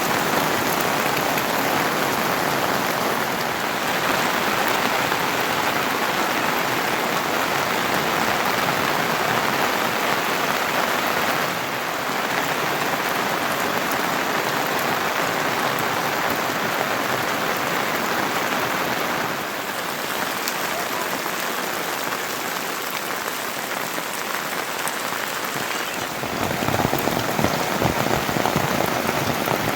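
Heavy monsoon rain falling steadily as an even hiss of drops. It shifts in loudness and tone a few times, growing fuller and heavier near the end.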